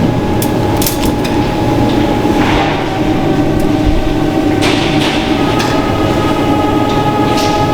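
Food-factory machinery running steadily with a constant hum, broken by sharp metallic clanks every second or two. A higher whine joins the hum about two-thirds of the way through.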